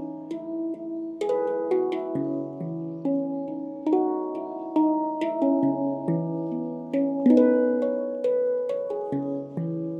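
Handpan played by hand: struck steel notes ringing out with long sustain, a low note every second or so under quicker higher notes, forming a slow melody.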